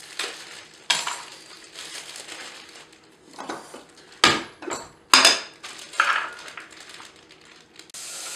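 Vegetable preparation with kitchen utensils: a series of scraping strokes broken by several sharp knocks and clinks, the loudest a little past the middle.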